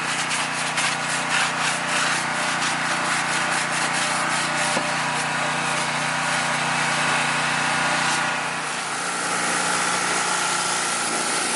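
Scrubbing of a tyre and wheel during detailing: a quick run of rubbing strokes in the first few seconds, then a steadier hiss from about eight seconds in, over a constant machine hum.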